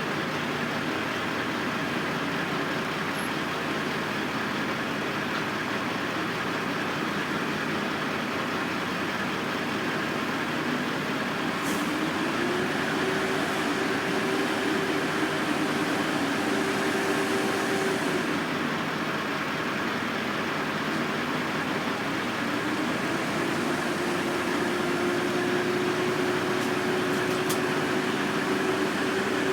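Heavy construction machinery running steadily, a continuous engine drone. About twelve seconds in one engine revs up to a higher steady pitch and holds it for several seconds, drops back, then revs up and holds again from about two-thirds of the way through.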